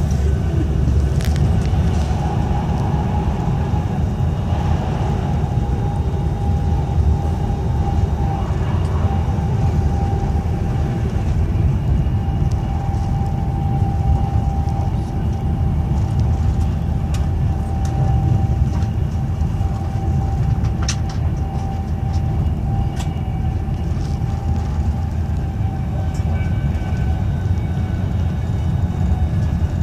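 Inside a moving passenger train: a steady low rumble of the wheels running on the track, with a thin steady whine over it for most of the stretch and a few brief ticks.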